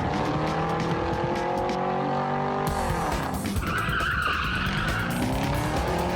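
Car engine revving, its pitch dropping about three seconds in as if on a gear change and then climbing again, with background music.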